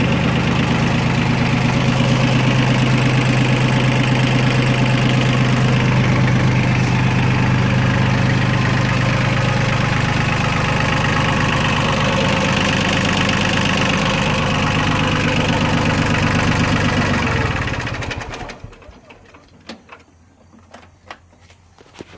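Yanmar three-cylinder diesel engine of a 1985 John Deere compact tractor running steadily, then shut off about eighteen seconds in. After it stops, a few faint clicks are heard.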